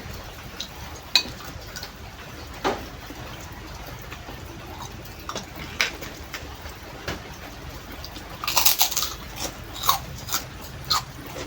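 Close-up eating sounds: scattered small clicks and mouth sounds, with a short burst of crisp crunching about nine seconds in, typical of biting into a fried cracker.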